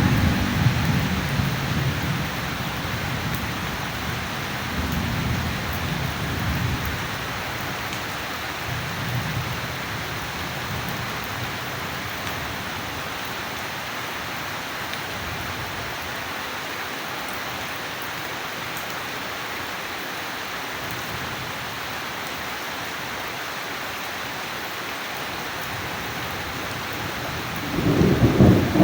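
Steady heavy rain with thunder: low rumbles rolling and dying away over the first several seconds, then a fresh clap of thunder breaking in near the end.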